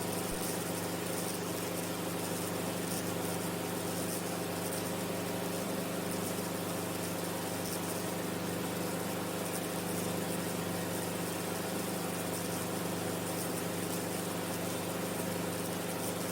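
Enstrom F28F helicopter in level flight: the steady drone of its piston engine and rotor, even and unchanging throughout.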